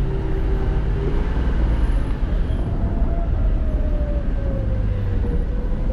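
Four-wheel drive's engine in first gear low range, holding the truck back on a steep descent: a steady rumble with a whine that slowly sags in pitch and climbs again near the end.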